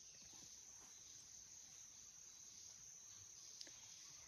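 Faint, steady, high-pitched drone of insects, with one small click about three and a half seconds in.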